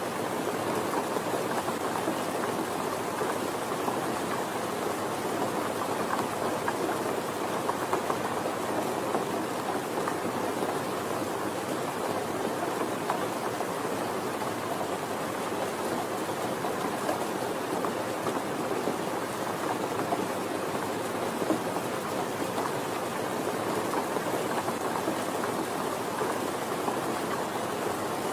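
Steady, even rain with no breaks or single events.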